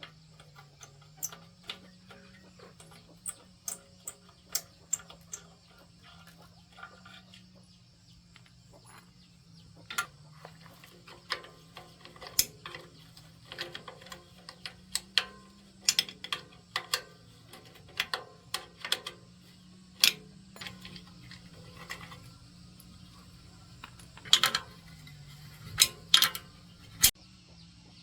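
Irregular sharp taps and knocks, spaced about a second apart and bunching into a few quick loud ones near the end, over a faint low steady hum.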